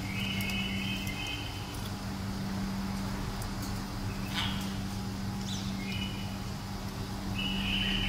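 Bird chirping in short high trills, with a few sharp clicks as an African grey parrot bites at a nut held in its foot, over a steady low hum.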